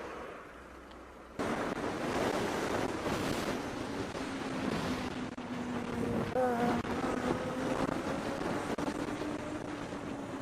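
Wind and road noise from a moving vehicle, cutting in abruptly about a second and a half in, with a steady engine drone underneath.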